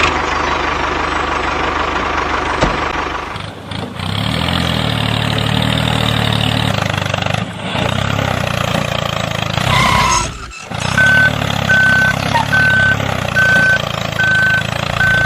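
Tractor engine running steadily, broken off briefly a few times. In the second half a high single-tone beep repeats about once every 0.8 seconds, like a reversing alarm.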